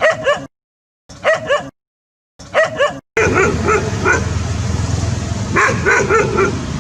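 Dog barking in short, high-pitched yips: three brief bursts cut apart by dead silence, then a longer stretch over steady background noise with two quick runs of yips, the second about two and a half seconds after the first.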